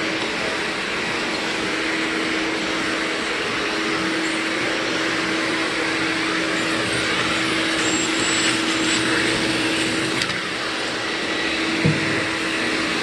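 Vacuum cleaner running steadily over a vinyl plank floor, picking up glitter: an even rush with a steady hum beneath it. A short click comes about ten seconds in, and a brief knock near the end.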